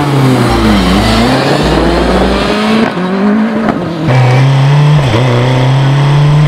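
BAC Mono's four-cylinder engine running hard under acceleration. Its pitch climbs and drops sharply several times with quick gear changes.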